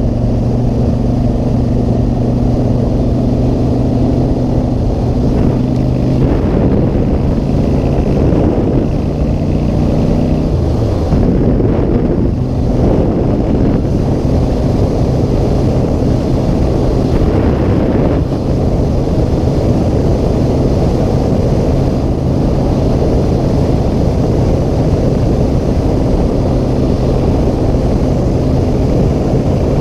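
Motorcycle engine running at a steady pitch under heavy wind noise on the microphone. About ten seconds in, the engine note falls, then holds steady again.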